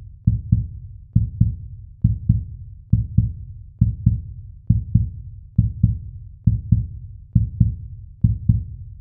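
Heartbeat-like pulse: pairs of low thumps, about ten pairs spaced just under a second apart, steady throughout.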